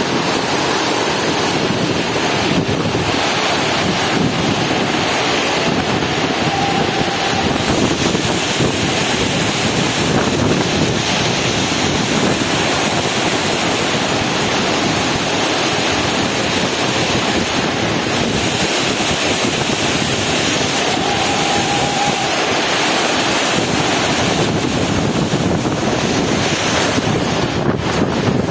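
Heavy rain pouring down as a dense, steady hiss, with wind buffeting the microphone.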